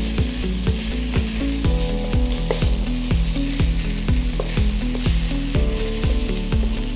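Minced chicken sizzling in a nonstick pan as it is stirred with a wooden spatula, with a steady frying hiss. Background music with a beat of about two strokes a second plays underneath.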